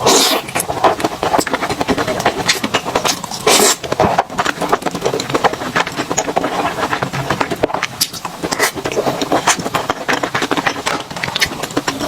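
Close-miked eating sounds: a person chewing and smacking on food, with many irregular wet clicks and a few louder crunchy bursts.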